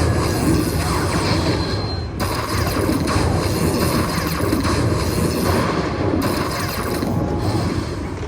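Electronic slot machine playing its clicking, chiming game sounds over a loud casino-floor din.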